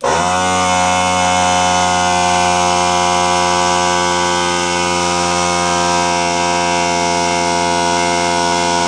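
Small portable air compressor being test-run after repair: it starts abruptly and runs steadily, a loud motor hum with many even tones.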